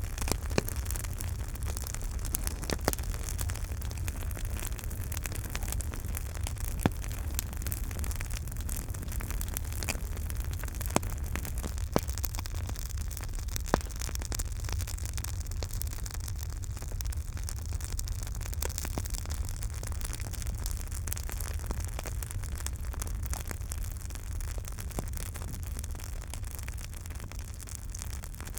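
Campfire burning: a steady low rumble and hiss of the flames, with sharp pops and crackles every second or few.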